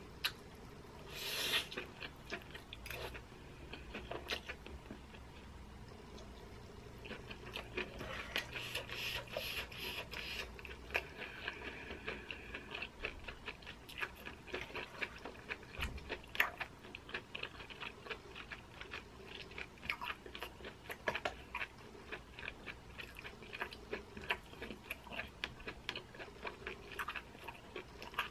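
Close-miked chewing of baked corn cheese: soft wet mouth smacks and clicks, many a second.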